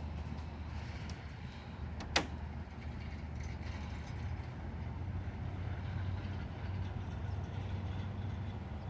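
A vehicle's engine idling: a steady low rumble, with one sharp click about two seconds in.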